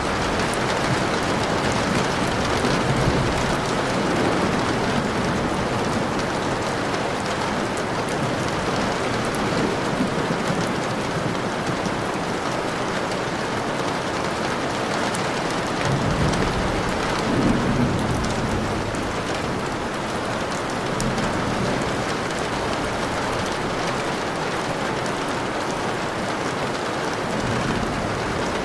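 Steady rain falling, with a few low rumbles of thunder, the largest a little past the middle.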